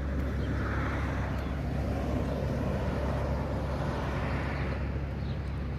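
Outdoor background noise: a steady low rumble with a rushing hiss that swells and fades twice.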